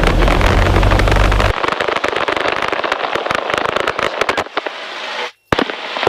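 Light airplane's piston engine running just after start, heard from the cockpit. A deep rumble drops away about a second and a half in, leaving a rapid, irregular crackle, and the sound cuts out briefly near the end.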